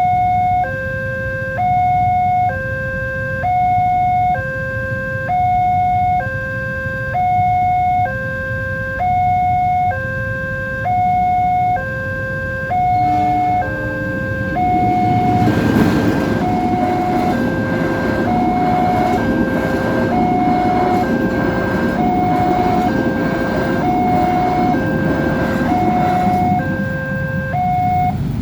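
Level crossing warning alarm sounding a repeating two-note electronic tone, high then low, about one cycle every second and a half. From about halfway a train rushes past over it, and the alarm stops near the end.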